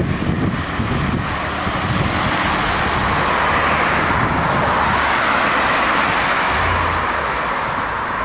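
Jet airliner passing on its landing approach: a broad roaring hiss that swells to a peak about halfway through and then eases off, over a low rumble.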